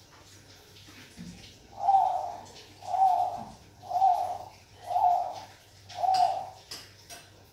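Zebra dove (Bangkok perkutut) cooing: five short, evenly spaced coos about a second apart, each rising and then falling slightly in pitch, beginning about two seconds in.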